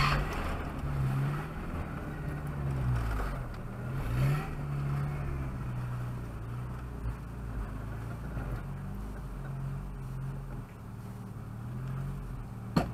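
Volvo saloon's engine heard from inside the cabin, running at low revs, the revs dipping and rising a few times in the first five seconds and then holding steady. A single sharp knock sounds near the end.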